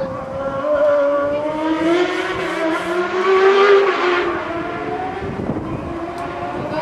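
Hillclimb race car's engine at high revs, its pitch climbing for a few seconds and then dropping sharply about four seconds in before running on at a lower pitch.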